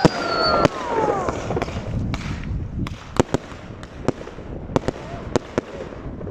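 Fireworks going off: a string of sharp bangs with crackling between them, and whistling that falls in pitch during the first second.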